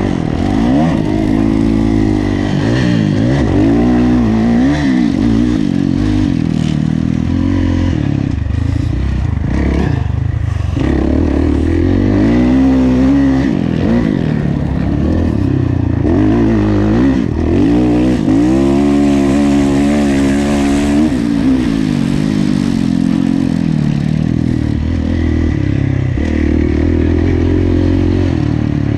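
Kawasaki KX450F single-cylinder four-stroke motocross engine under race load, its pitch rising and falling again and again as it is opened up and rolled off between sections. Mixed with clatter from the bike.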